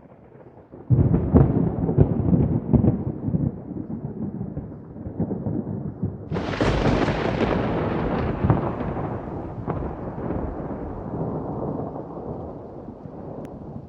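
Thunder: a sudden loud rumbling clap about a second in, a second sharper crack around six seconds in, and then a long rumble that slowly fades.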